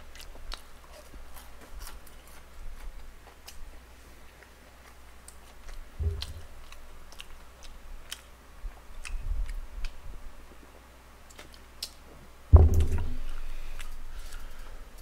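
Close-miked chewing of boneless fried chicken, with scattered small crunchy clicks. A dull thump comes about six seconds in and a louder one near the end.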